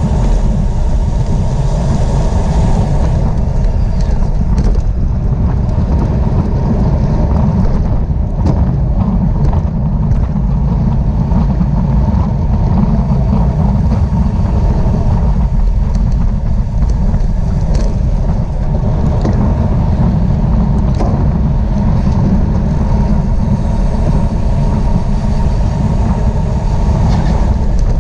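Steady, loud wind rumble on the microphone of a camera moving at speed with a bicycle road race, with a few faint clicks through it.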